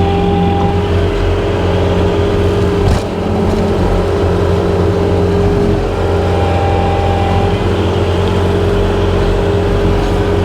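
Skid steer engine running steadily under load with its brush hog attachment spinning, a steady whine held over the low engine hum. A single short knock about three seconds in.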